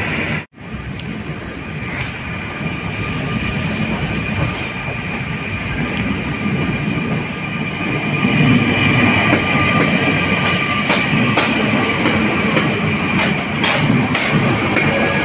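Electric multiple-unit passenger train running past along the platform, with a steady high-pitched whine over the rumble of the wheels and sharp clicks as they pass over rail joints, getting louder and more frequent in the second half. The sound cuts out for a moment about half a second in.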